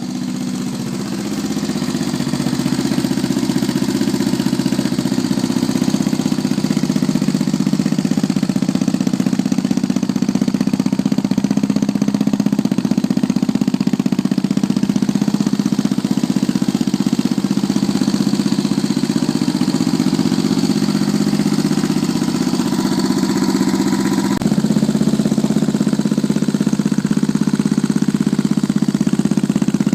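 Modified Yamaha XT600 single-cylinder four-stroke engine, fitted with a 97 mm big-bore piston, a stage 2 camshaft and an S&S Shorty carburettor, idling steadily with even firing pulses. About 24 seconds in it gets slightly louder.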